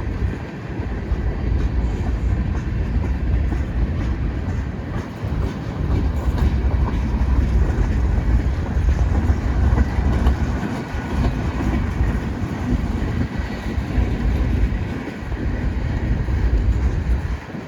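Freight train rolling past: a continuous rumble of railcars with wheels clacking over the rails.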